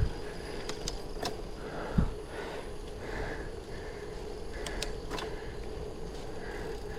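Bicycle riding noise: a low rumble with a steady hum, two dull thumps about two seconds apart near the start, and a few sharp clicks scattered through.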